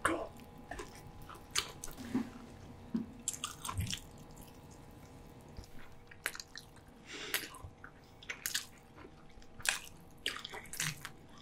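Close-miked mouth sounds of people chewing roast pork belly and spicy bibim noodles: irregular wet smacks and clicks. A faint steady hum runs underneath.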